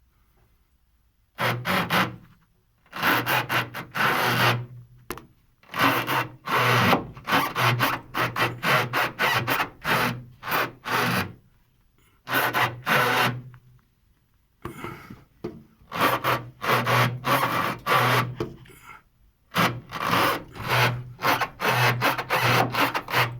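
Polyurethane anti-roll bar bushings creaking in repeated rubbing strokes, in runs with short pauses and a few strokes a second in places.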